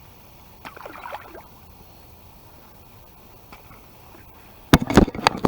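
A small bass being landed: a brief splash and slosh of water about a second in, then a cluster of loud, sharp knocks and thumps near the end as the fish is handled.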